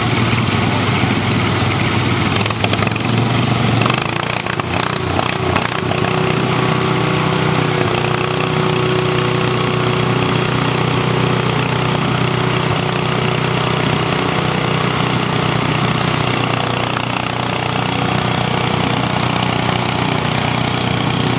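Tractor engine running steadily; its note changes about four seconds in, with a few knocks and clatters around then.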